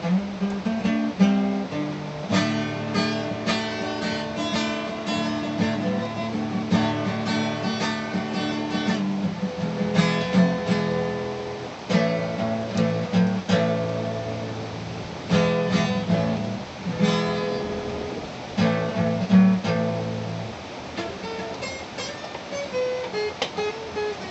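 Acoustic guitar playing, strummed chords alternating with lighter passages of single plucked notes.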